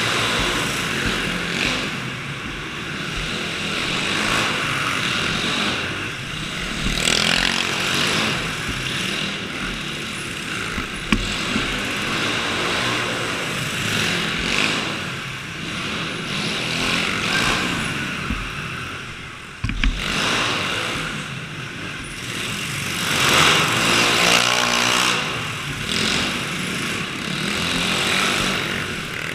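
Small engines of dirt bikes and go-karts running and revving, growing louder and fading again as they pass several times.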